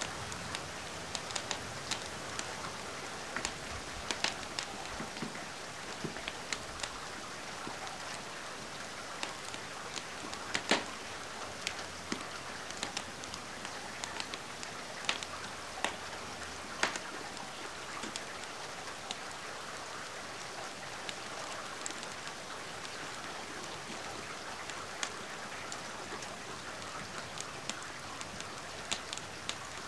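Steady rain, with scattered sharp pops and crackles from a burning wood fire; the loudest pop comes about a third of the way through.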